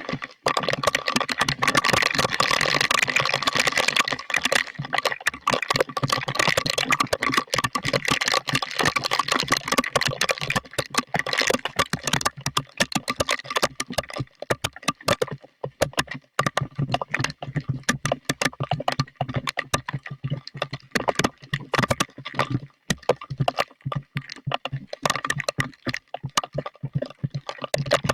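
Heavy rain drops pelting a hard surface close by, a dense irregular clatter of sharp ticks over a hiss. The hiss is thickest in the first few seconds, then the ticks come sparser and more separate.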